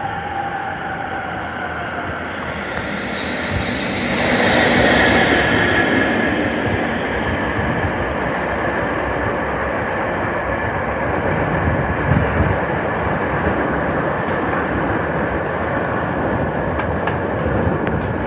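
An electric locomotive runs through the station hauling a string of new subway cars. The rumble swells as the locomotive comes past, loudest about four to six seconds in, with a high tone sliding down. A steady run of the cars' wheels on the rails follows.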